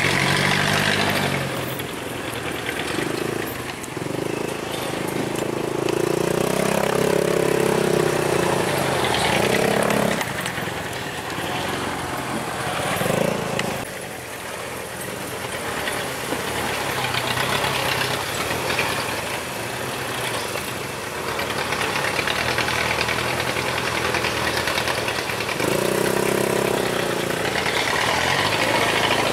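Truck's diesel engine labouring off-road, revving up and easing off several times as it works over rough, holed ground.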